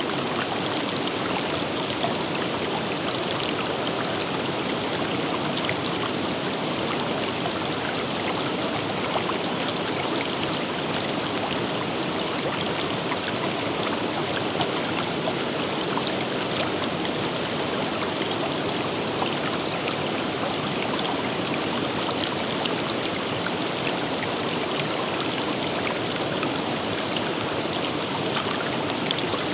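Forest river flowing: a steady, even rush of water with small splashes and trickles over stones.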